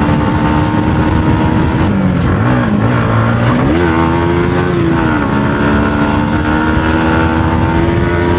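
Yamaha MT-15's single-cylinder engine running at steady riding revs. About two seconds in, its pitch dips and swings up and down for a few seconds as the throttle is eased and reopened, then holds steady again. A low wind rumble sits underneath.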